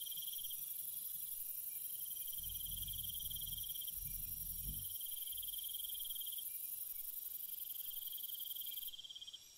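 Night jungle ambience of crickets and other insects: a steady high shrill drone that cuts off near the end, over a pulsing trill repeated in long phrases with short gaps. A faint low rumble sits under it near the middle.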